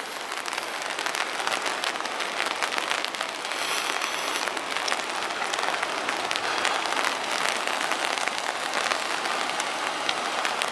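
Steady rain falling, with many small drop hits ticking close by.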